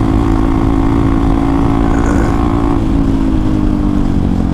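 Hero XPulse 200's single-cylinder engine running steadily through an aftermarket Akrapovic exhaust while the bike is ridden, its pitch easing slightly lower in the second half.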